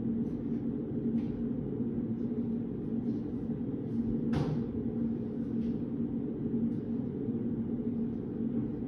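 Steady low room hum of a study-room ambience, with a faint held tone. A few faint ticks sound through it, and there is one brief rustle about four and a half seconds in.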